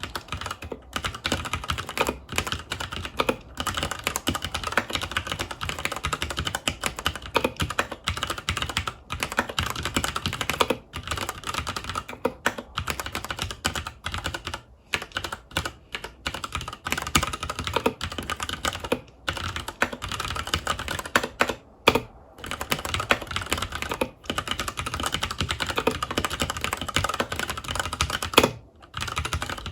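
Continuous typing on a FILCO Majestouch 2 Hakua tenkeyless mechanical keyboard with Cherry MX Brown switches: a fast, irregular run of key presses with a few brief pauses.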